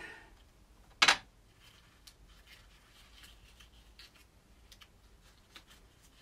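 Hands handling a glass container and its contents: one sharp knock or clink about a second in, then faint rustling and small clicks.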